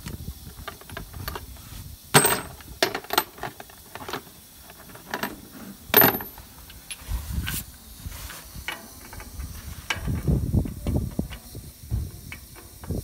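Hand tools working on a tractor's lift-arm fittings: irregular metallic clicks and clinks, with two sharp loud metal clanks about two and six seconds in.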